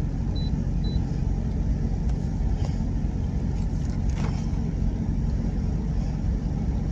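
Steady low hum of an idling truck engine, with two short high beeps from a cooking appliance's controls about half a second and a second in.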